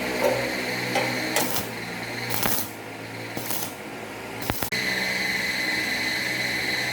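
Homemade mini bench drill running with a steady high whine. Several sharp knocks and short scraping noises come in the middle, where the sound dips, before it runs steadily again.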